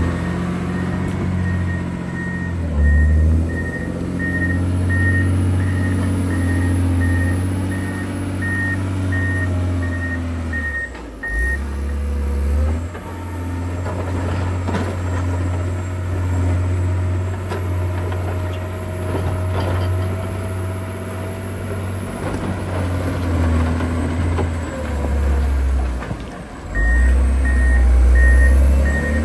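John Deere 670 motor grader's diesel engine running with its pitch rising and falling as it works, while its reversing alarm beeps steadily for about the first ten seconds and starts again near the end.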